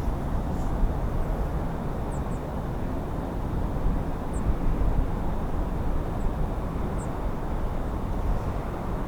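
Steady low rumble of the Boeing 747 Dreamlifter's four jet engines as it climbs away, with a few short, high bird chirps over it.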